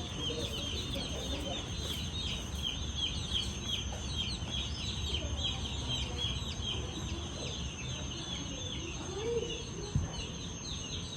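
A flock of birds chirping together in a busy, rapid chatter of short, high calls, over a steady thin high whine and faint voices.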